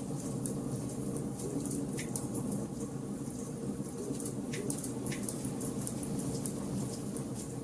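Wood fire burning in a fireplace: a steady low rumble of flames under dense, fine crackling, with a few sharper pops from the burning logs.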